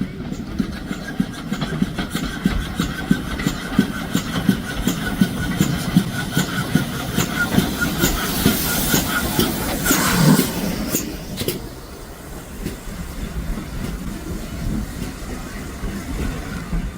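Train running past, its wheels clicking steadily over the rail joints, with a rush of hiss building to the loudest point about ten seconds in before the sound drops back to quieter clicking.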